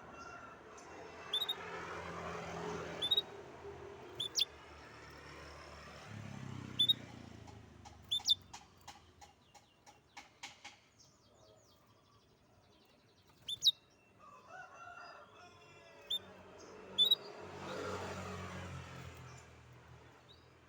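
A songbird chirping in short, sharp calls, with a rapid ticking trill about eight seconds in. A rushing background noise rises and fades twice, near the start and near the end.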